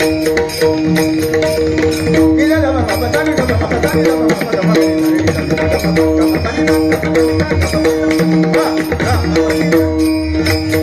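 Bhajan accompaniment: a harmonium holding steady chords while a hand drum and small cymbals keep an even beat.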